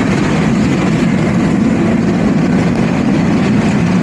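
Freight train's diesel locomotive running close by, a loud steady low rumble with no break.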